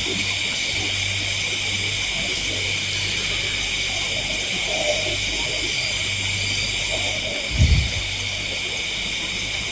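Steady high-pitched hiss of a night insect chorus in the jungle, with a low hum beneath. One short low thump about seven and a half seconds in.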